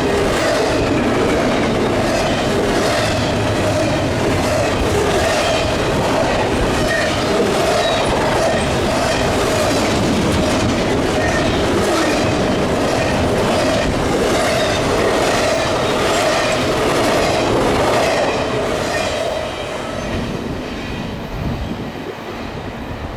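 Freight cars rolling steadily past at track side, wheels clicking in an even repeating rhythm over rail joints, with a steady ringing tone from the wheels. The sound fades about 18 seconds in as the end of the train goes by.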